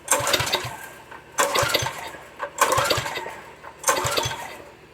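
Recoil pull-start of a Craftsman 7 horsepower power washer engine, pulled four times about a second and a quarter apart. Each pull is a sudden whir of the cord with the engine cranking over and dying away, without catching. The engine is primed with starting fluid, and the owner puts the hard starting down to a carburetor issue.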